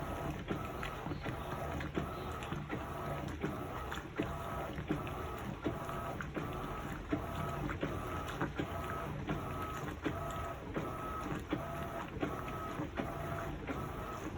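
Electrolux LPE16 washing machine agitating a load of two queen comforters on its heavy program: a motor whine that switches on and off in a quick, even rhythm, with light knocks between strokes.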